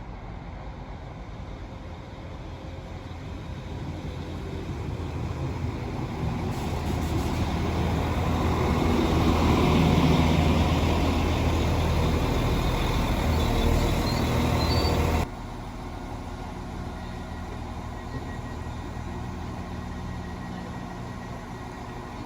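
A diesel train approaching and passing, its engine and wheel noise growing steadily louder to a peak about ten seconds in. The sound cuts off abruptly a few seconds later, leaving a quieter steady rumble.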